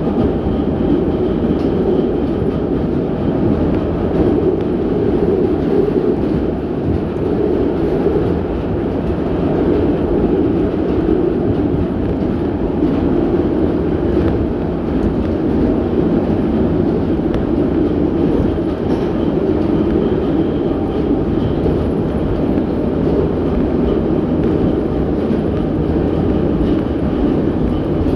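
81-717.6 metro train running at speed through a tunnel, heard from inside the car: a steady, even rumble of wheels and running gear on the rails.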